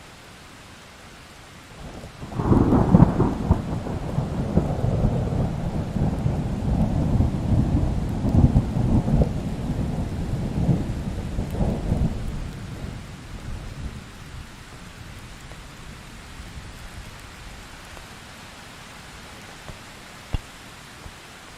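Thunderstorm sound effect: steady rain with a long roll of thunder that breaks about two seconds in, loudest at its onset, then rumbles for about ten seconds before fading back into the rain. A single sharp tick near the end.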